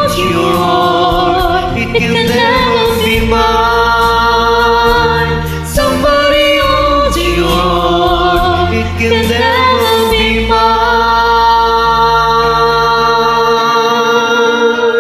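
Music: layered wordless vocal harmonies in a choir-like, a cappella style, held over sustained low bass notes.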